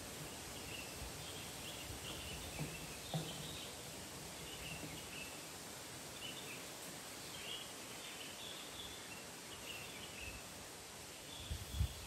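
Small birds chirping in short repeated calls over a steady outdoor hiss, with a few soft low thumps, the loudest near the end.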